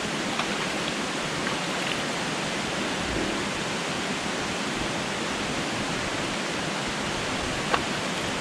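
Waterfall pouring steadily into a rock pool: an even, unbroken rush of falling water, with one short click near the end.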